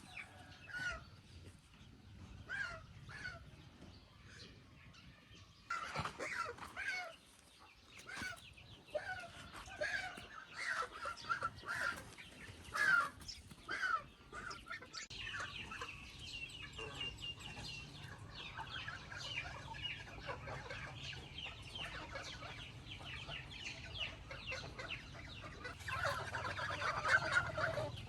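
Chickens clucking and calling, many short calls overlapping. From about halfway a dense chorus of high chirps joins in, growing louder near the end.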